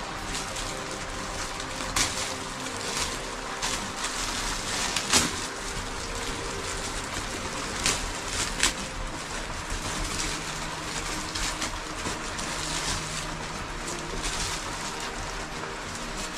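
Steady rain hissing, with a few sharper drop strikes standing out now and then, the loudest about five seconds in.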